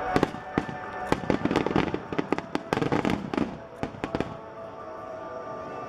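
Fireworks bursting in rapid succession with a dense run of bangs and crackles that thins out after about four seconds. Music plays underneath.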